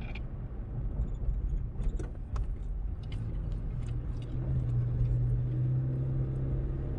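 Car driving along, heard from inside the cabin: a steady low rumble of engine and road noise, with a deeper hum growing stronger about four and a half seconds in.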